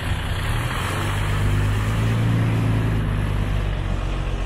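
Street traffic: a motor vehicle's engine running close by with a steady low hum, louder from about a second in and easing slightly near the end.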